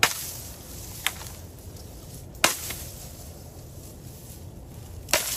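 A blade chopping into a bamboo pole, four sharp strikes at uneven intervals.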